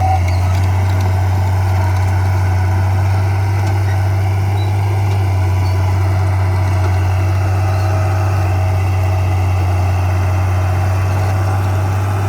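Diesel engine of heavy earthmoving equipment running steadily, a constant low hum with no revving.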